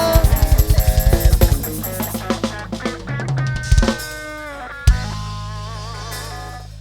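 Live band playing a closing flourish: a rapid roll of drum-kit and bass drum strokes, then held chords that waver in pitch, cut by a single drum hit about five seconds in, and fading away.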